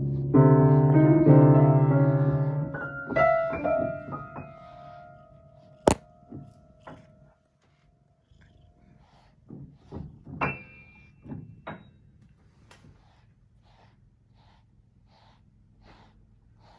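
Piano keys pressed by a cat's paws. About half a second in, a loud jumble of notes sounds together and rings on, then scattered single notes follow. There is a sharp knock about six seconds in, and a couple of faint notes come around ten seconds.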